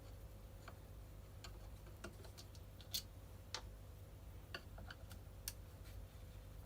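Faint, irregular clicks and ticks of a screwdriver working on the screws of a brush cutter's top plate, with a low steady hum underneath.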